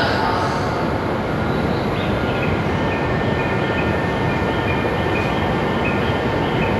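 Shinkansen bullet train moving along a station platform: steady rail and running noise, with faint thin high tones over it.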